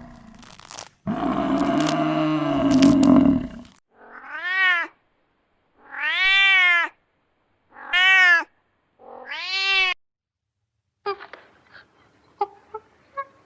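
A domestic cat meowing four times, each meow rising and falling in pitch. Before the meows comes a loud, harsh, drawn-out animal call, the loudest sound here. Near the end there are a few short, sharp animal sounds.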